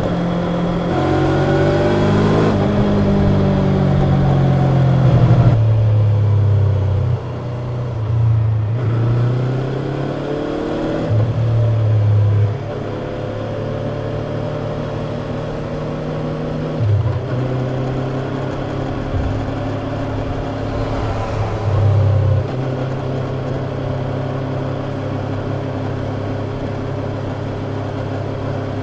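Yamaha YZF-R25's parallel-twin engine through its stock exhaust, ridden with the engine note rising and falling under throttle and dropping sharply at several gear changes, then running at a steadier pitch in the second half.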